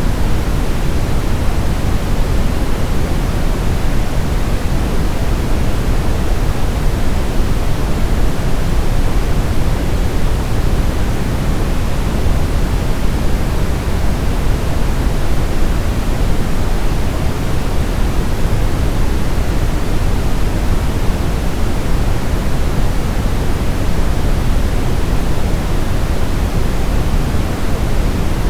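Steady, unchanging sleep noise: an even hiss with more weight in the deep rumble than in the high end, with no breaks or changes.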